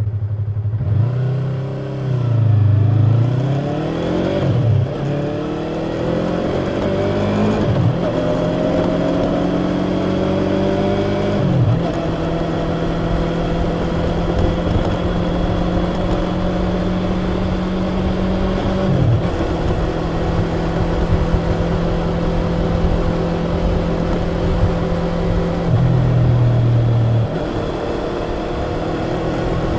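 Yamaha YZF-R25's stock exhaust, its two-cylinder engine accelerating hard through the gears: the pitch climbs and drops sharply at each upshift, four times in the first twenty seconds, then holds at steady revs.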